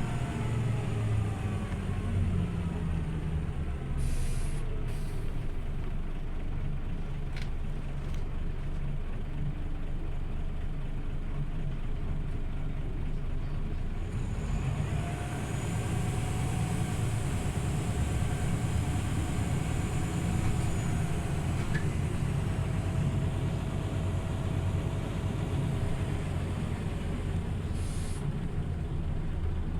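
Scania OmniLink CL94UB city bus running, with a steady low engine drone throughout. Over the first few seconds a whine falls in pitch as the bus slows. Short hisses of air come about four seconds in and again near the end, and about halfway a steady whine comes in as the bus drives on.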